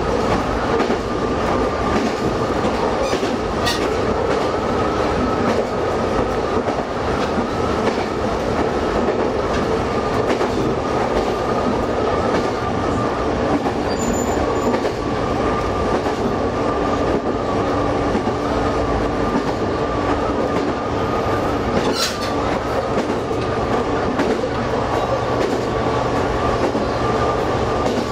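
Diesel railcar running steadily along single track, heard from inside the cab: continuous engine and wheel noise with a steady whine. There are two sharp clicks, one about four seconds in and one about three-quarters of the way through.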